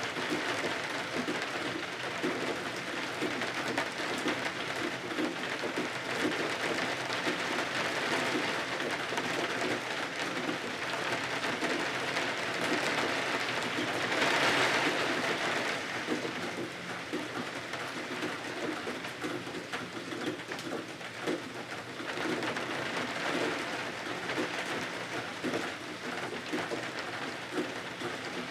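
Steady rain falling, swelling a little heavier for a couple of seconds about halfway through.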